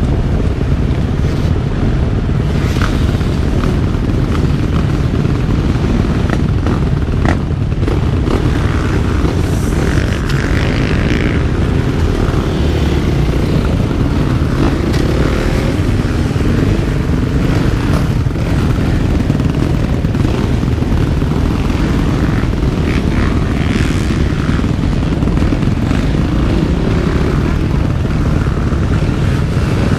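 Motocross motorcycle engine heard from an onboard camera while riding the track. The revs rise and fall continually over a heavy low rumble, with scattered sharp knocks.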